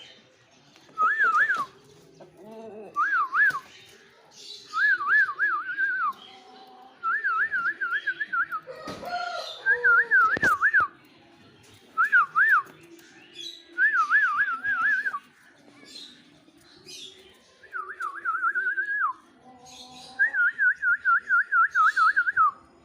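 A warbling whistle: a single tone wavering quickly up and down, about five wobbles a second, repeated in phrases of one to two seconds about ten times with short gaps between. Fainter, lower-pitched calls come between some of the phrases.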